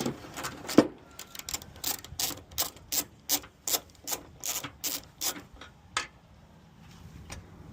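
Socket ratchet clicking in a steady run of about three clicks a second, stopping about six seconds in, as a headlight mounting bolt is backed out.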